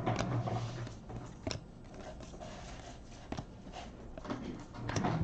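Trading cards being handled and flipped through: soft rustling with a few sharp clicks of card edges.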